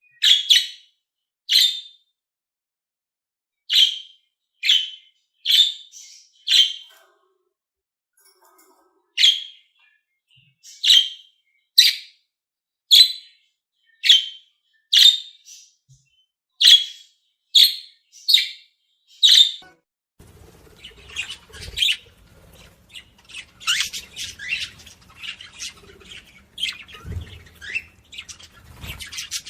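Budgerigars calling: short sharp chirps, one roughly every second with pauses between, then about two-thirds of the way through a denser, continuous chattering warble starts with a low rumble underneath.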